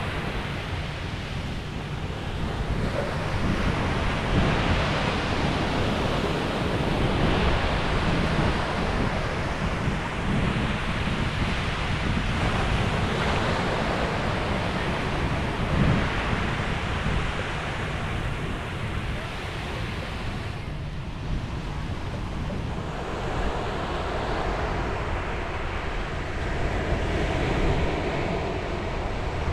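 Ocean waves breaking and washing on a beach, swelling and easing every few seconds, with wind rumbling on the microphone.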